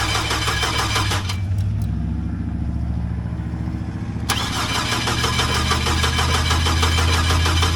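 Starter cranking the freshly rebuilt Chevy Colorado engine, which turns over with an even chugging rhythm but does not fire. The cranking lets up for about three seconds partway through, then resumes.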